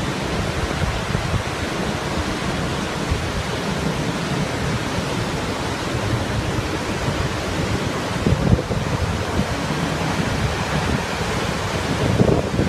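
Steady rushing roar of Montmorency Falls, falling water heard as a thick, even noise, with wind buffeting the microphone now and then.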